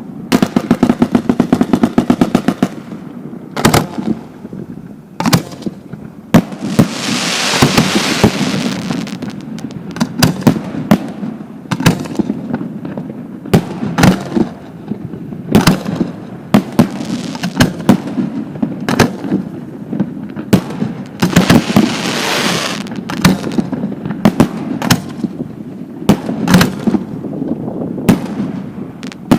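Fireworks display: shells bursting with sharp bangs, a rapid string of reports in the first few seconds, then scattered single bangs and two longer stretches of crackling hiss.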